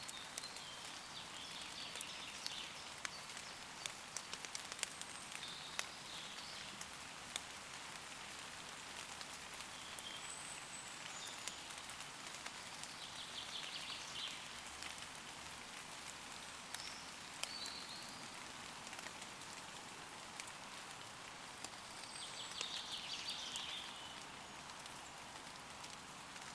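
Steady rain falling on forest leaves, with single drops ticking close by. Woodland birds sing short, high phrases several times through it.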